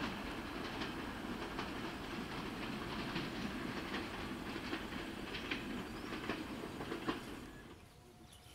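Broad-gauge passenger train rolling along the track, a steady rumble with irregular clicks as the coach wheels cross rail joints. It fades out near the end.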